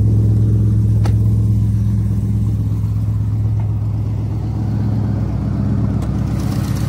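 6.4-litre HEMI V8 idling steadily, with a sharp click about a second in.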